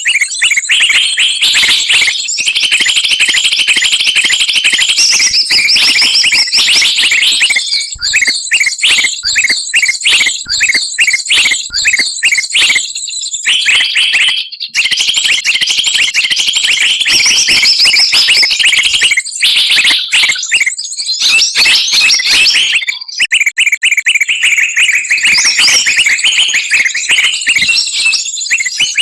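A bird-lure recording: a loud, dense medley of many small songbirds' calls layered together, rapid high-pitched chirps, trills and chattering with no let-up, briefly thinning twice.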